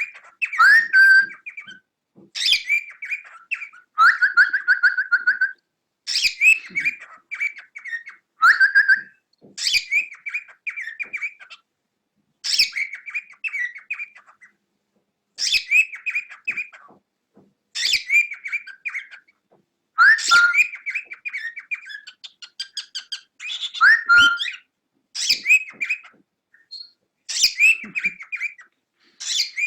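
Cockatiel chattering and whistling in short phrases every two to three seconds, each a quick rising whistle run into rapid scratchy chatter.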